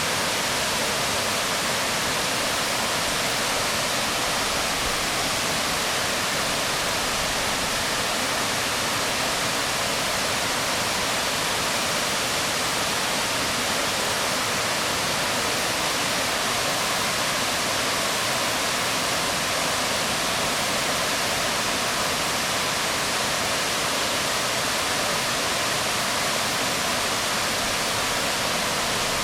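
Waterfall falling on rocks: a steady, even rush of water.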